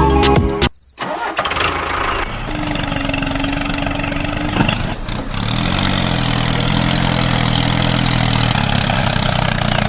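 Background music cuts off about a second in, then an engine starts and runs steadily, with a held tone for about two seconds and then a low pitched hum.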